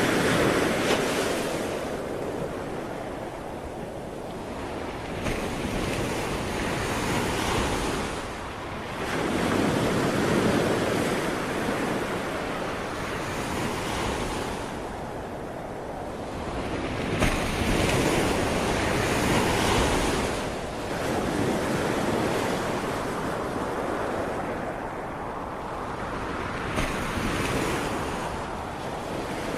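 Ocean waves breaking and washing ashore, the surf rising and falling in slow swells every several seconds, with some wind noise on the microphone.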